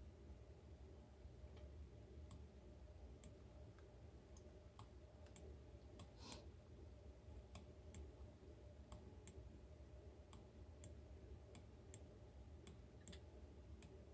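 Faint, irregular clicks of a computer mouse, a few every couple of seconds, over a low steady room hum.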